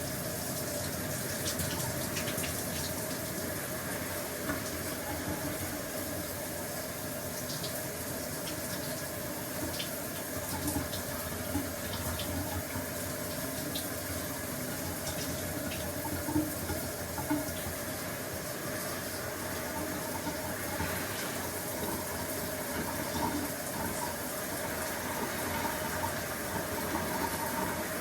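Shower running steadily: a continuous hiss of water spray with small scattered drip and splash ticks.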